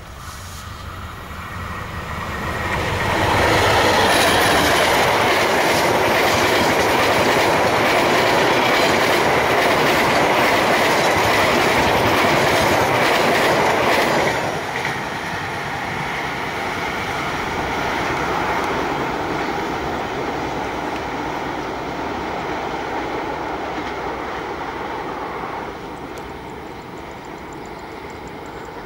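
Diesel-hauled passenger train passing close by: the noise of its locomotive and steel wheels on rails builds over the first few seconds into a loud steady rush with the clickety-clack of the carriages. About halfway through it drops to a lower rumble that slowly fades.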